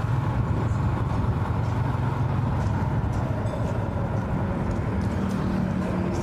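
Yamaha motorcycle engine running steadily at low road speed, with road and wind noise. A steady tone joins about five seconds in, and a faint tone rises slowly near the end.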